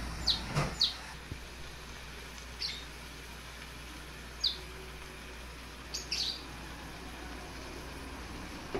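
A bird chirping: about seven short, high notes, each sweeping quickly downward, spaced irregularly, over a faint steady low hum.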